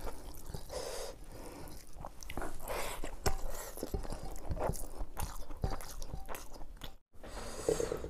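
Close-miked eating sounds: a man chewing and smacking his lips on mouthfuls of khichdi, with the wet squish of his hand mixing the khichdi on the plate. The sound drops out briefly about seven seconds in, then the eating resumes.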